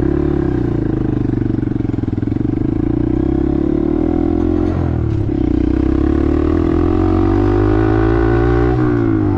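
Small Honda 125 cc single-cylinder motorcycle engine running under way at steady revs. There is a short dip in revs about five seconds in, and the revs fall away near the end.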